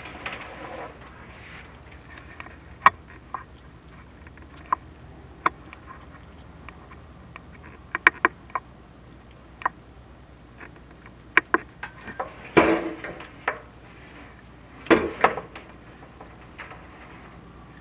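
Chimney inspection camera being lowered down a stone-lined fireplace flue, knocking and scraping against the stone and mortar: scattered sharp clicks and taps, with two short bursts of scraping about two-thirds and three-quarters of the way through, over a faint steady hum.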